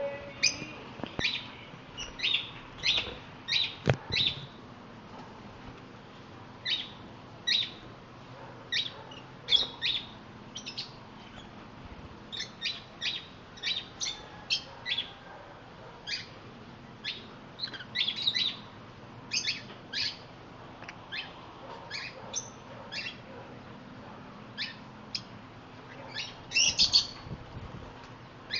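Parrots chirping: many short, sharp, high chirps in quick irregular runs, with a longer, louder burst of chatter near the end.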